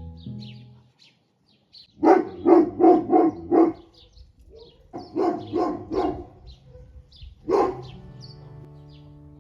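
A dog barking in three runs: five quick barks, then four, then a single bark, with small birds chirping.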